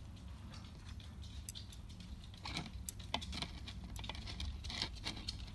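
Faint scattered taps, clicks and rustles of hands handling the packaging around a shipped tarantula, growing busier about halfway through, over a low steady hum.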